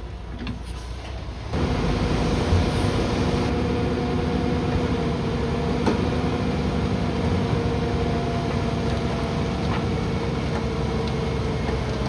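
Diesel engine of heavy earthmoving machinery running steadily with a constant whine, suddenly much louder about a second and a half in.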